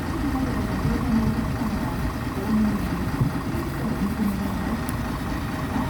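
Mitsubishi Fuso Aerostar city bus's six-cylinder diesel engine idling steadily with a low rumble.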